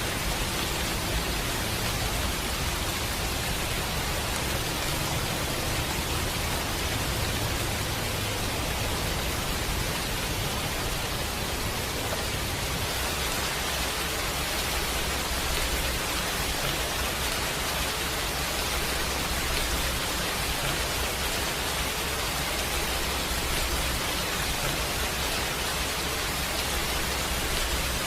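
Steady rain falling, an even hiss with no breaks, mixed with a fireplace ambience.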